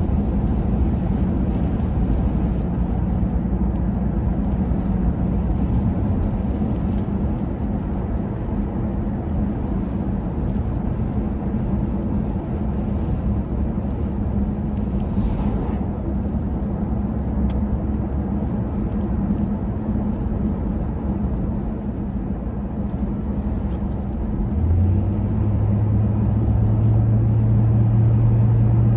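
Low, steady rumble of motor vehicle engines and traffic. A lower engine hum starts about 25 seconds in and the sound gets a little louder.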